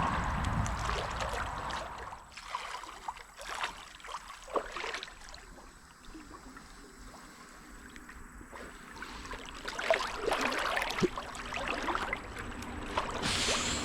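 Creek water splashing and sloshing in irregular bursts, quieter for a few seconds in the middle.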